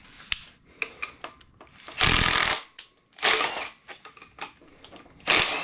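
Hand-held power tool, a drill or impact driver, run in three short bursts about a second apart, with a few small clicks of handling before the first burst.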